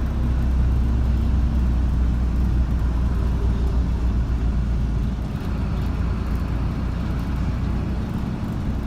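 Steady low rumble of a car on the move: engine hum and road noise, with no distinct events.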